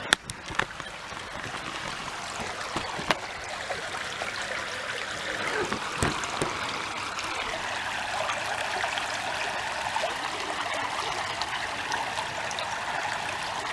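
Steady rush of flowing water, with a few sharp clicks near the start.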